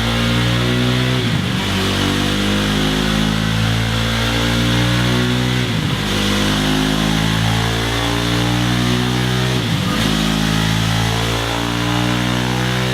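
KTM Duke 390's single-cylinder engine running through a Scorpion Serket Taper aftermarket exhaust, its note steady with small shifts in pitch and a brief dip about every four seconds.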